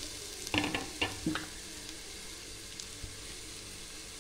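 Sliced bitter gourd sizzling as it fries in hot oil in a clay pot: a steady hiss, with a few sharp clicks in the first second and a half.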